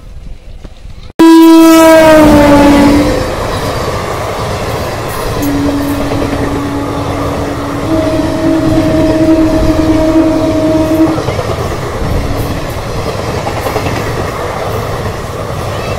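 Indian Railways express train passing close by: a loud horn blast about a second in that slides down in pitch as it goes past, then the rumble and clickety-clack of the sleeper coaches. A second, longer horn in two notes sounds from about five to eleven seconds, with a short toot after it.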